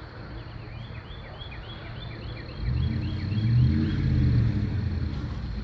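A bird calls a rapid series of short, high, falling notes, about four a second. From about halfway in, a vehicle engine, likely the four-wheel-drive truck holding the rope, runs louder, rising and then easing off over about three seconds.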